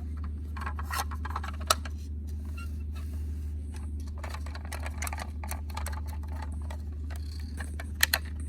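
A toy truck being handled, with scattered small clicks and rattles from its parts. There is a sharper click a little under two seconds in and a quick pair near the end, all over a steady low hum.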